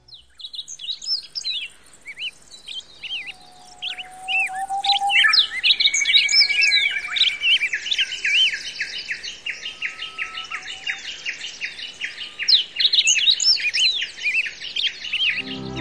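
A dense chorus of many small songbirds chirping and singing at once, thickening about five seconds in into a fast, rapidly repeated chirping. It starts and stops abruptly.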